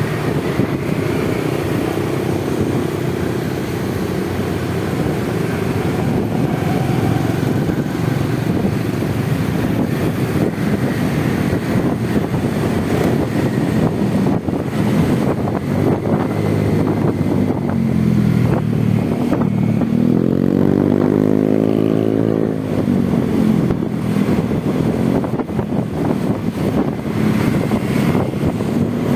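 Motorcycle riding noise in city traffic: a steady rush of wind and engine. Roughly two-thirds of the way through, an engine's pitch drops and then climbs again for a few seconds.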